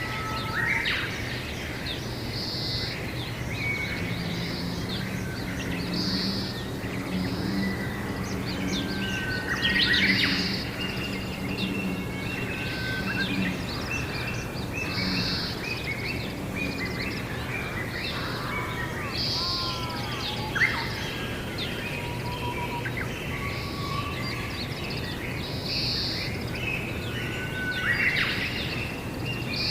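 Several wild birds calling and chirping in overlapping short notes, some sweeping in pitch, with a repeated higher chirp coming every second or two. A steady low hum sits underneath throughout.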